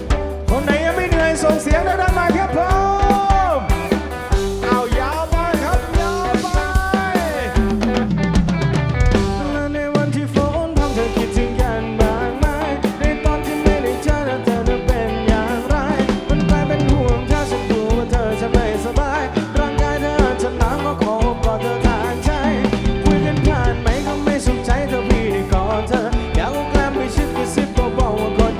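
A live band plays an instrumental break: a drum kit keeps a steady beat under a lead line whose notes bend up and down.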